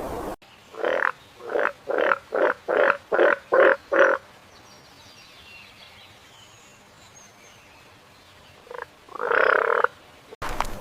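A farm animal calling: a series of about eight short calls that come faster and faster, then, after a pause, one short call and a longer one near the end.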